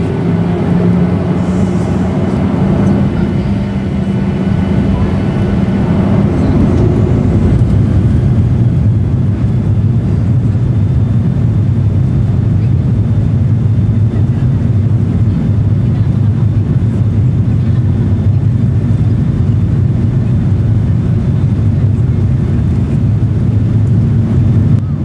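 Boeing 737-800's CFM56-7B jet engines heard from inside the cabin, most likely at the start of the takeoff run. A steady engine hum fades over the first several seconds as a loud, steady low rumble of the engines and the runway roll builds and then holds.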